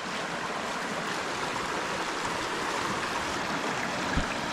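River water rushing steadily over rocks, with a single soft thump about four seconds in.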